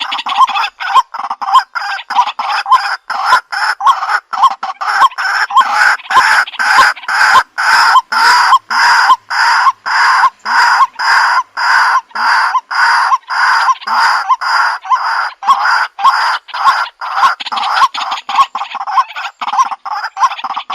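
White-breasted waterhen call, a recorded decoy call of the male: a loud, harsh 'kwak' repeated about twice a second without a break.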